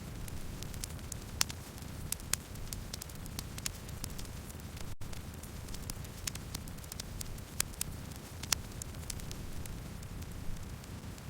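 Wood campfire burning, with irregular sharp crackles and pops over a low steady rumble of flame; a few pops stand out louder. The sound cuts out for an instant about five seconds in.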